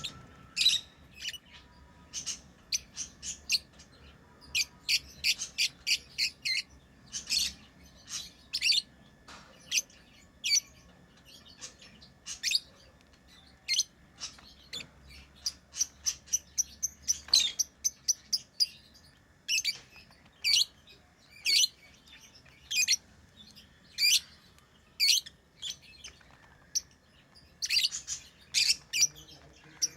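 Pet lovebirds chirping: many short, sharp, high-pitched chirps, coming in quick irregular clusters with brief gaps.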